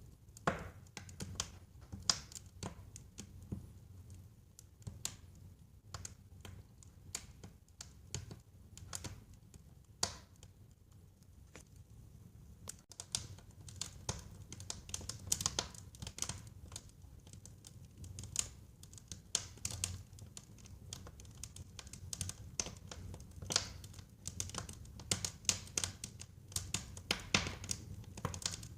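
Wood fire burning in a fireplace, crackling and popping at irregular intervals over a low, steady rumble. The crackles grow more frequent from about halfway through.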